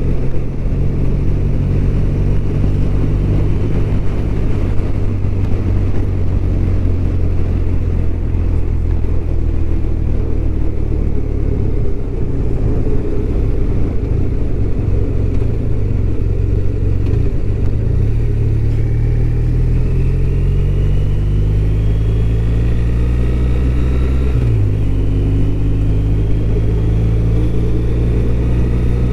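BMW R1200RT's boxer-twin engine running under way, with steady road noise. About two-thirds of the way through, the engine pitch climbs, drops suddenly at a gear change and climbs again.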